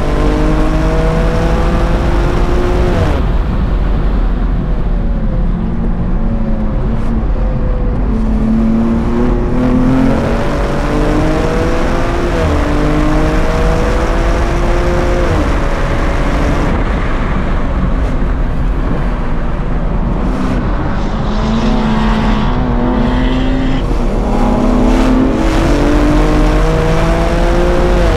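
2023 BMW M2's twin-turbo inline-six heard from inside the cabin at racing speed, held in fourth gear: the engine note climbs under throttle, drops back as the driver lifts off, and climbs again several times over the lap.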